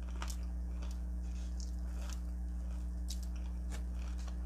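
Close-miked chewing of crunchy breaded fried chicken wings, with scattered crisp crunches over a steady low electrical hum.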